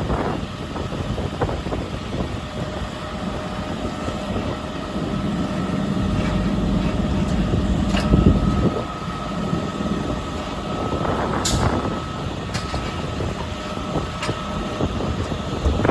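Heavy dump truck engine running with a steady low rumble that swells for a few seconds in the middle. A faint steady whine sits over it, with a few sharp clicks in the second half.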